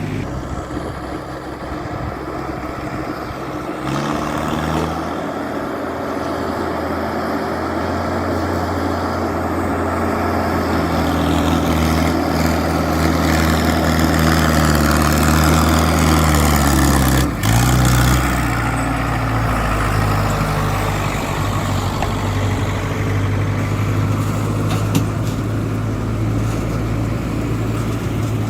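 Mahindra Arjun 605 tractor's diesel engine running steadily. Its note rises and holds higher for several seconds, then drops sharply about 17 seconds in and settles to a steady lower pitch.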